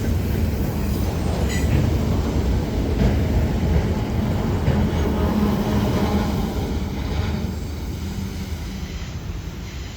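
CSX freight train rolling past: a steady heavy rumble of wheels on rail, fading away during the last few seconds.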